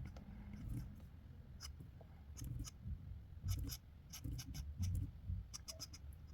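Sketching strokes scratching across paper: short, irregular strokes, several in quick clusters through the middle and near the end.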